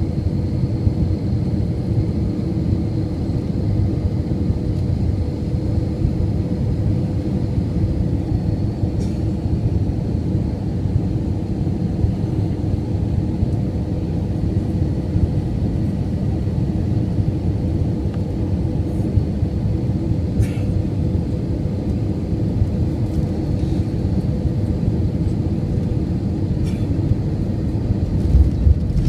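Jet airliner during landing: a steady low rumble of engines and airflow with a faint steady whine, growing louder in the low end near the end.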